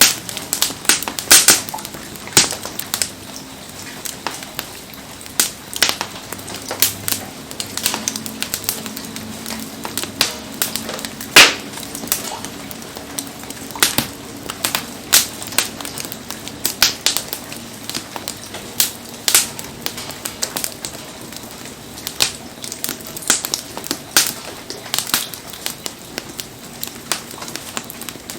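Wood campfire crackling, with irregular sharp pops and snaps scattered over a steady low hiss.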